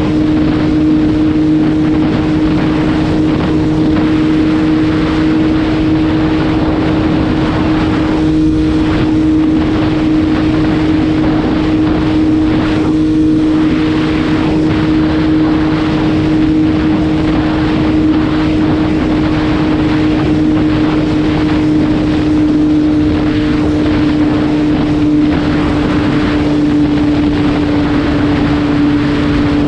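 MV Agusta F3 675's 675cc three-cylinder engine running at a steady, fairly high speed while the bike is ridden, a constant drone over a rushing noise, its pitch dipping slightly near the end.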